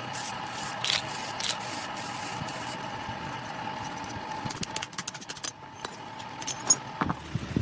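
A workshop machine running with a steady whine, with scattered metal clicks and knocks that come more often in the second half; the whine stops near the end.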